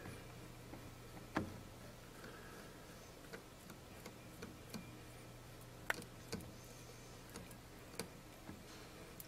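Faint, irregular small clicks and taps of washers and nuts being fitted and hand-tightened onto a toilet's closet bolts, a few louder clicks among them, over a low steady hum.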